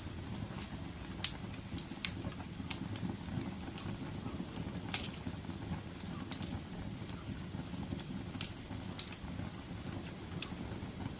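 Wood fire crackling: a steady low rumble of burning with sharp, irregular pops and snaps, the loudest about a second in and near five seconds.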